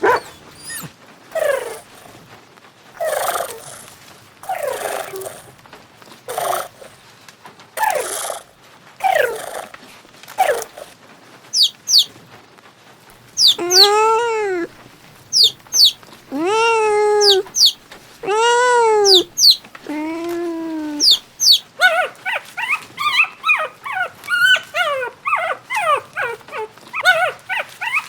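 Dogs barking in sharp separate calls, then four drawn-out rising-and-falling howls of about a second each. In the last few seconds comes a busy chorus of quick, high puppy whimpers and yips.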